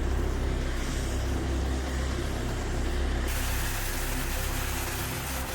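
Steady low drone of large aircraft engines. About three seconds in, a louder rushing hiss joins it.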